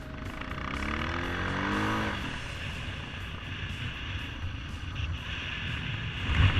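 Motorcycle engine running under way with a steady low rumble. About a second in, its pitch climbs as it accelerates, then drops off sharply near the two-second mark.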